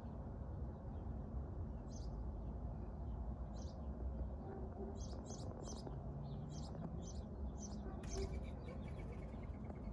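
Birds chirping: short high calls every second or two, several close together in the middle, and a quick run of rapid notes near the end, over a steady low rumble.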